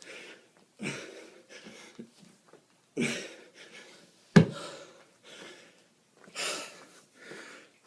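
A man breathing hard from exertion during a kettlebell workout: heavy, breathy exhalations every second or two, the loudest a sharp burst about halfway through.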